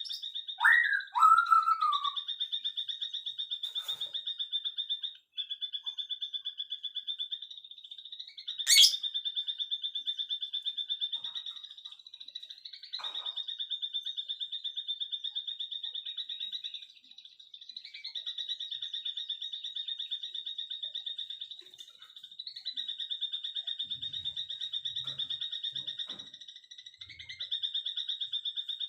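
A continuous high, rapidly pulsing trill from a calling animal, with a fainter lower trill beneath it. A few short sweeping bird chirps in the first couple of seconds, and a sharp click about nine seconds in.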